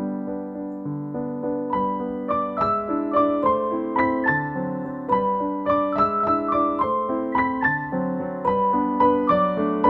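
Soft background piano music: single notes played one after another over a low accompaniment, each ringing and fading, the melody moving higher from about two seconds in.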